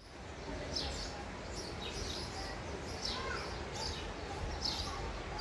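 Small birds chirping, short falling chirps about twice a second, over a steady low outdoor rumble.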